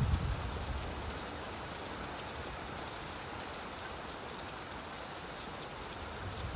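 Steady rain falling, an even hiss of raindrops on a surface. A low rumble fades away during the first second.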